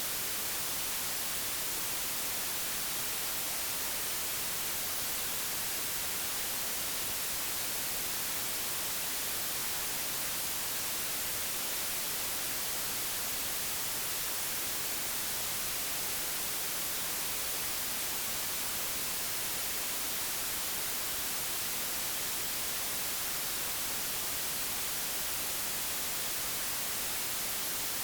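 Digitally generated white noise: a steady, even hiss with no change in level, strongest in the high frequencies.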